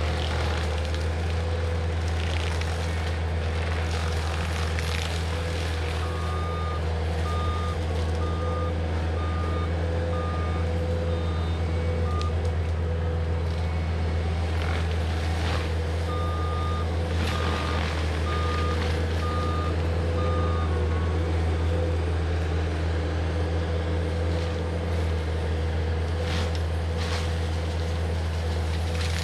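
Cat 259D compact track loader's diesel engine running steadily under a forestry mulching head. Its backup alarm beeps in two runs of about a beep a second while the machine reverses, with a few short cracks now and then.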